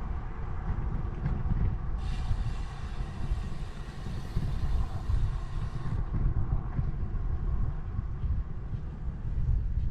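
Ride noise from a moving bicycle: a continuous, uneven low rumble of wind on the camera microphone, with road traffic, and a brighter hiss between about two and six seconds in.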